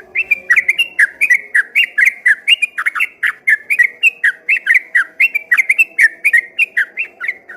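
Yellow-vented bulbul (trucukan) singing a long, fast run of loud whistled, gliding notes, about four or five a second, without a break; the song stops at the very end.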